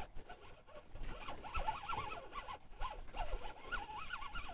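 A flock of birds calling in a quick, chattering run of short calls that rise and fall, starting about a second in.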